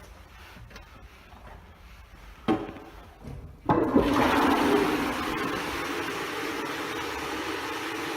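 Toilet flushing: a sharp click about two and a half seconds in, then just over a second later a loud rush of water that eases into a steady flow.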